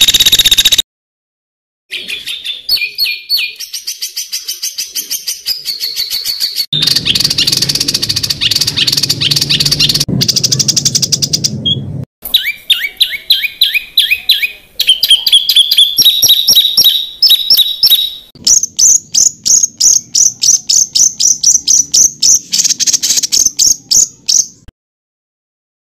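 Songbird singing fast runs of short, sharp repeated notes, each run a rapid stutter of one note, changing pitch from phrase to phrase. The phrases are spliced together with abrupt cuts, with a second-long gap near the start and another near the end.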